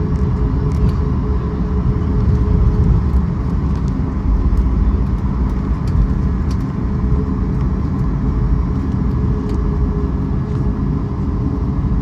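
Steady low rumble of a moving vehicle, with a constant hum over it and a few faint clicks.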